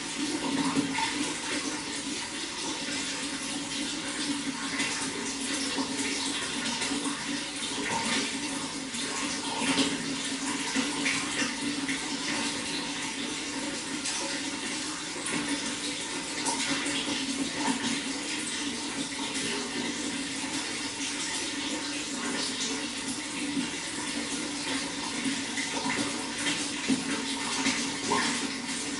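Running water flowing steadily, a continuous rush with many small splashes and gurgles.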